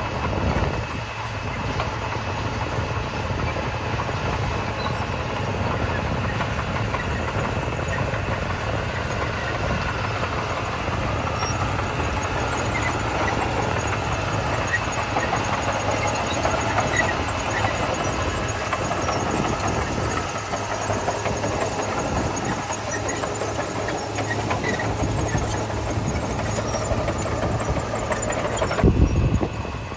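Heavy diesel construction machinery, a bulldozer and dump trucks, running steadily with a rough engine rumble. There is a short loud burst near the end.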